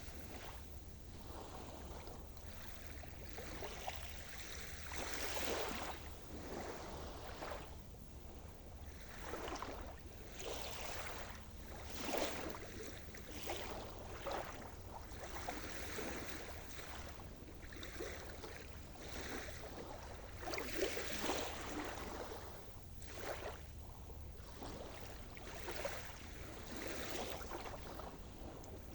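Sea surf: waves washing in and breaking in irregular surges every couple of seconds, over a steady low rumble.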